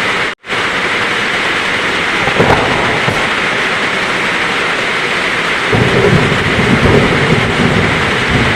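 Heavy rain falling steadily, with a brief crack of thunder about two and a half seconds in and a low thunder rumble building a little past the middle and rolling on to near the end. The sound drops out for an instant near the start.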